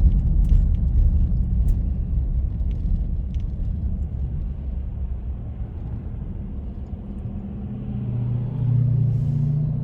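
Low rumble of a motor vehicle on the road, easing off through the middle, with a steady low engine hum growing louder near the end.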